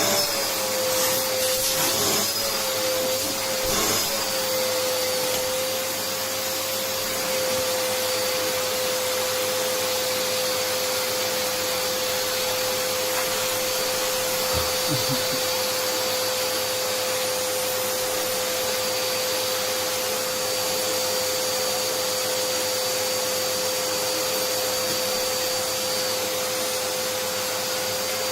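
Vacuum cleaner running steadily: an even rushing noise with a constant motor whine that wavers slightly in the first few seconds, then holds one pitch.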